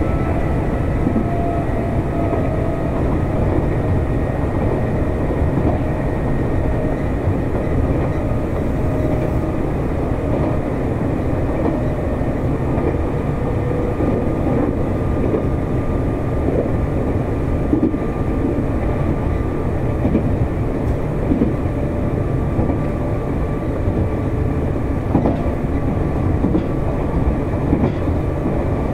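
Nankai 7100 series electric train running at speed: a steady rumble of wheels on rail, with a few thin whining tones that sink slowly in pitch as it goes.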